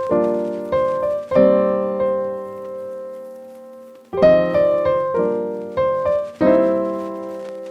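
Piano music: slow chords struck a few times, each ringing and fading, with a long fade in the middle before new chords come in after about four seconds.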